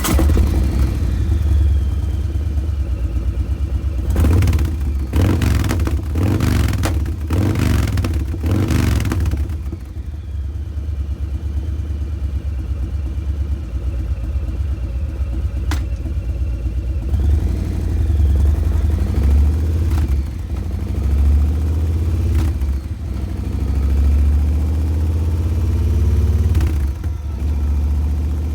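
Harley-Davidson Breakout's Milwaukee-Eight 114 V-twin breathing through Vance & Hines Eliminator 300 slip-on mufflers and a Stage 1 air cleaner, idling with a lumpy beat. It is blipped about six times in quick succession from about four seconds in, then given a few lighter revs later before settling back to idle.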